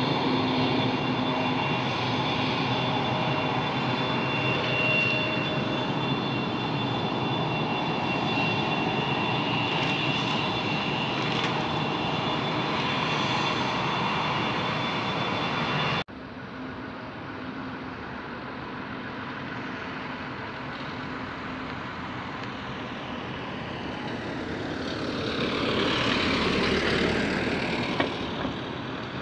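Jet airliner engines running with a loud, steady high-pitched whine. About halfway through the sound cuts off abruptly to a quieter jet engine noise, which swells and fades near the end as an airliner passes.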